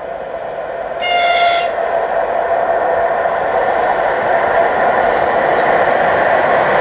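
ChS2T electric locomotive and its passenger train approaching, the running noise growing steadily louder. About a second in, the locomotive gives one short, high-pitched whistle blast.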